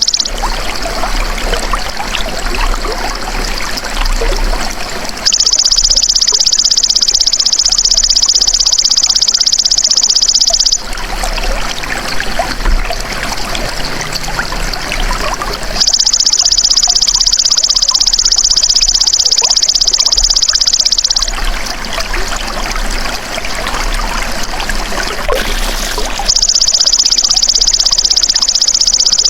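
A belalang emas insect singing a loud, high, continuous buzzing trill in bouts of about five seconds that start and stop abruptly. Between the bouts, trickling water can be heard.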